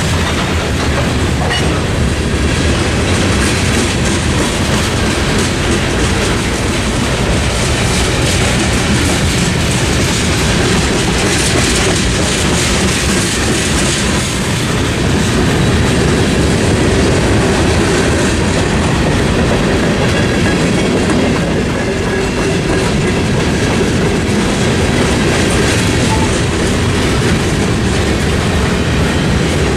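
A Norfolk Southern mixed freight train's tank cars and boxcars rolling past, steel wheels running on the rails, loud and steady throughout.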